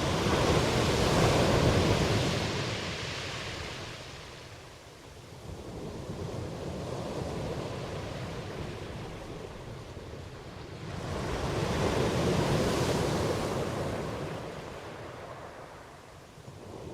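Ocean waves surging and washing ashore: a loud swell near the start, a quieter wash, then a second swell about two-thirds of the way through.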